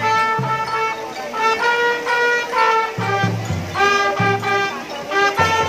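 Marching drum band playing: a melody of held pitched notes over low bass-drum beats.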